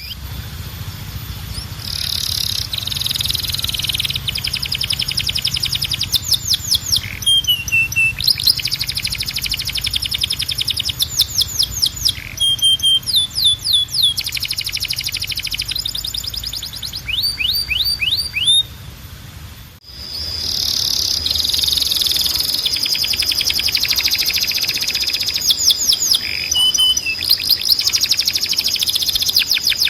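Timbrado canary singing long runs of rapidly repeated notes and trills, with quick falling whistles in between. The song breaks off briefly about two-thirds of the way through and then resumes.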